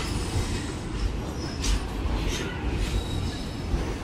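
Indian Railways ICF passenger coaches rolling slowly past along a platform: a steady low rumble of wheels on the rails, with a few short high-pitched squeaks from the wheels.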